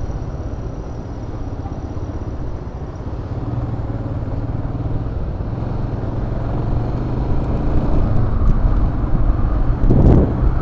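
Motorcycle engine running on the road, getting louder over the second half as the bike picks up speed, with wind buffeting the action-cam microphone near the end.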